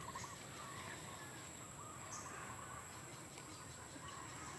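Quiet outdoor ambience with a few faint bird chirps over a steady high-pitched hiss.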